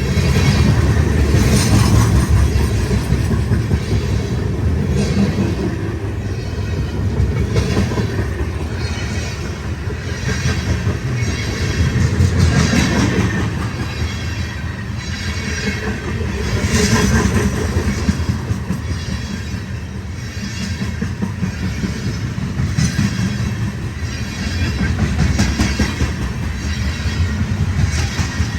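Loaded tank cars of a BNSF unit oil or ethanol freight train rolling past: a steady low rumble with the clickety-clack of wheels over rail joints, swelling and easing every few seconds.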